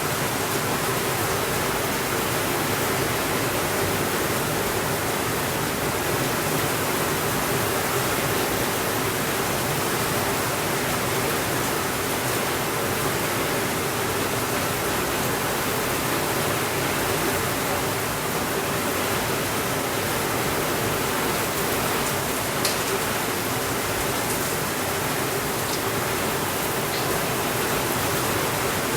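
Steady, even rainfall noise with no thunder. A few faint ticks come through about two-thirds of the way in.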